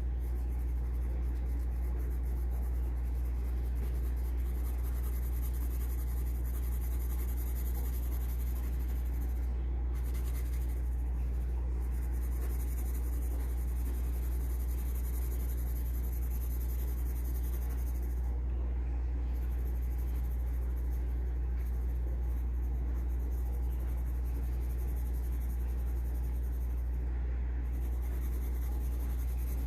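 Graphite pencil scratching and rubbing on paper as it draws, over a steady low hum.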